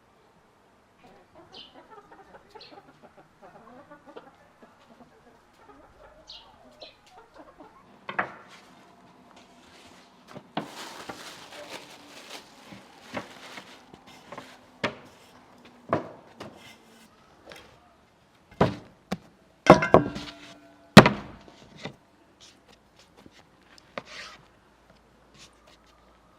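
Chickens clucking, with a series of sharp knocks and clatters that grow loudest near the end.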